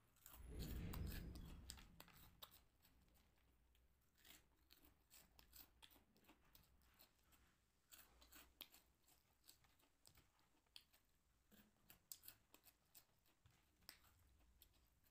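Close-up crunching and chewing of crispy snacks, many small irregular crunches, after a soft low bump about a second in.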